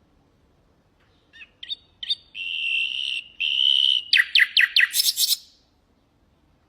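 Nightingale singing one phrase. It opens with a few short notes, then two long steady whistles, then a fast run of falling notes that ends in a harsh rattle. The phrase starts about a second and a half in and stops about a second before the end.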